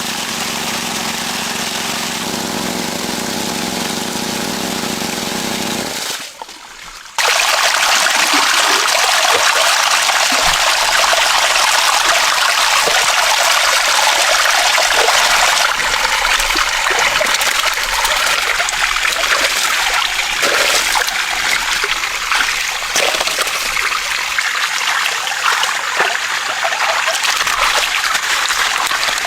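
A small engine running steadily for about six seconds, then an abrupt cut to loud water rushing and splashing continuously, typical of water running or being pumped out of a muddy pond.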